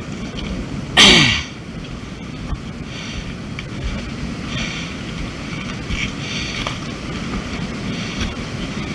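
Wind buffeting the microphone with a steady low rumble. About a second in, a brief loud sound falls quickly in pitch.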